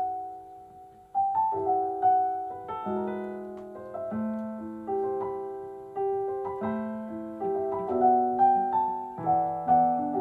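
Piano playing slow chords, each struck and left to ring and fade. A brief gap comes about a second in before the chords resume, forming the instrumental intro to the next song.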